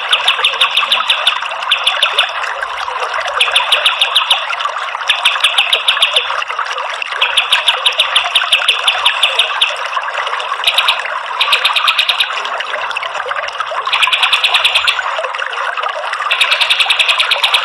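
Kapas tembak songbird giving bursts of rapid, evenly repeated high notes, about ten a second, each burst lasting a second or two, over the steady rush of running water.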